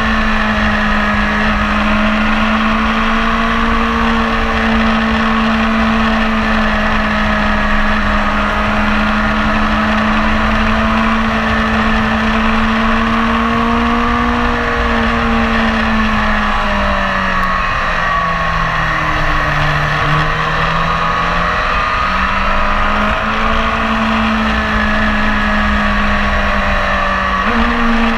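BMW S1000RR sport bike's inline-four engine running hard, heard from the rider's seat. The engine note holds steady, falls in pitch for a few seconds about two-thirds of the way through, then climbs back up.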